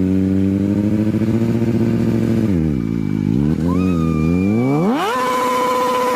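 Motorcycle engine revving: held steady, dropping briefly, then rising sharply about five seconds in and holding at high revs.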